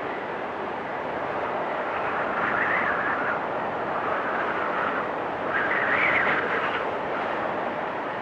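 Storm wind blowing steadily, with two stronger gusts that rise to a higher whistling rush, about two and a half seconds in and again around six seconds in.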